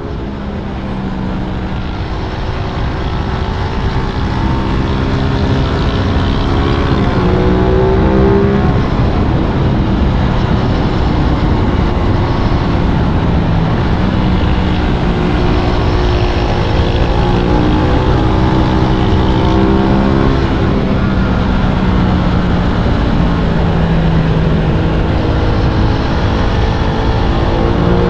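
Aprilia RS 660 sport motorcycle's parallel-twin engine under way, its pitch climbing and dropping repeatedly as the rider accelerates and rolls off. Heavy wind rush runs under it, and it gets louder over the first several seconds.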